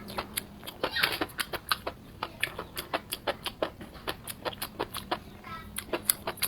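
Crunchy fried food being chewed close to the microphone: a rapid, steady run of crisp crunches, several a second.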